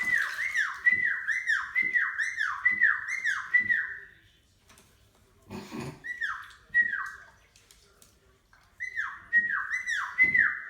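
Caique whistling a rapid string of falling whistle notes, each sliding down about an octave, two to three a second, in three runs with short pauses between. A few soft thumps come in under the whistles.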